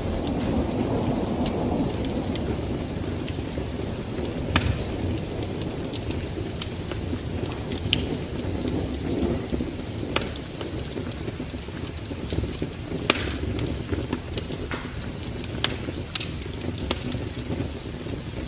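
Wood fire in a fireplace crackling, with scattered sharp pops over a low, steady rumble of flames.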